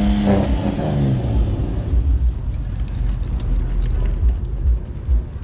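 A car engine is revved, and its pitch falls away over the first second or so as it drops back toward idle. A low rumble follows.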